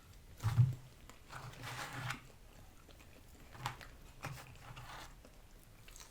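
Biting and chewing McDonald's French fries close to the microphone, in several short bursts, the loudest about half a second in.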